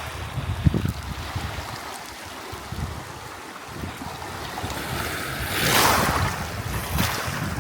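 Waves washing against the shore, with wind buffeting the microphone; one larger wave surges in about six seconds in.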